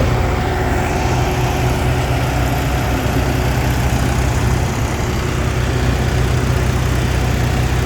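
Engine of a farm machine, a tractor or a chain-track harvester, running steadily at an even speed with a deep hum.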